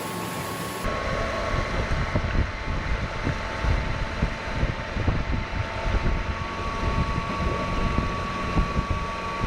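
Wind buffeting the microphone and water rushing past the hull of a boat at speed, with a steady high whine from a Momentum M10 electric outboard motor running at full throttle. About a second in, the wind rumble grows louder.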